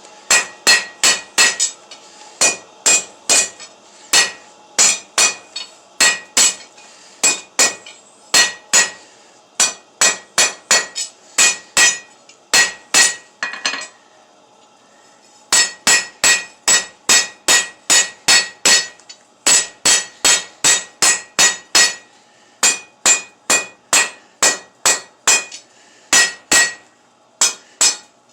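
Hand hammer striking steel bar stock on an anvil, about two to three blows a second, each with a bright metallic ring. The blows come in runs, with a pause of about a second and a half near the middle.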